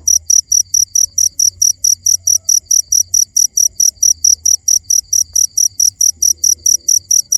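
Cricket chirping steadily: a high, even pulse about five times a second.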